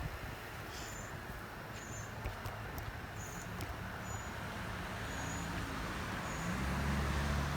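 Outdoor background noise with a short high chirp repeating about once a second, like an insect. A low vehicle-like hum grows louder near the end.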